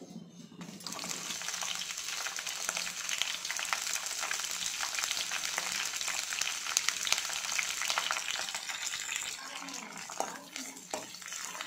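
Green chillies hitting hot oil in a nonstick wok: a sudden loud sizzle about a second in that goes on as dense crackling, easing off near the end. A steel spatula then stirs the chillies around the pan, with a few sharp clicks.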